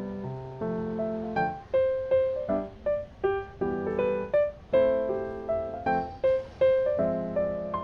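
Background piano music: soft chords and a simple melody played at a gentle pace.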